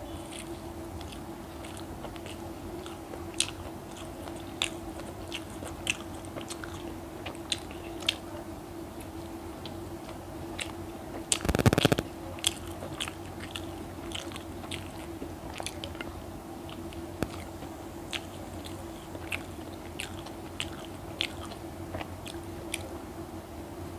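Close-up chewing and biting of egg-topped toast, with many small crunchy, wet mouth clicks and a brief loud noise about halfway through. A steady low hum runs underneath.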